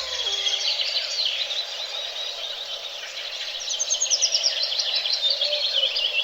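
Several songbirds singing, overlapping chirps and trills, with a fast run of notes sliding downward about halfway through.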